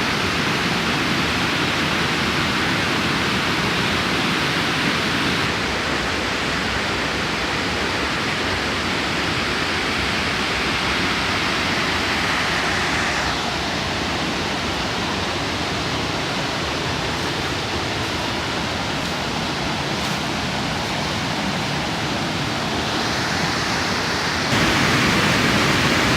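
Waterfall's falling water rushing steadily. The rush shifts in tone a few times and becomes louder near the end.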